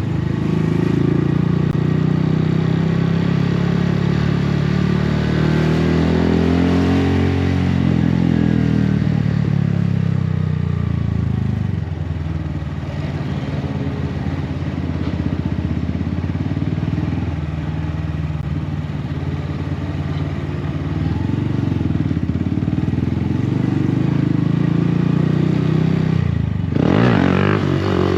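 2018 Honda Grom's 125 cc single-cylinder engine with a Yoshimura exhaust, running on the move. Its pitch climbs as it accelerates, eases back down and holds steady for a long stretch, then drops briefly near the end and climbs sharply again.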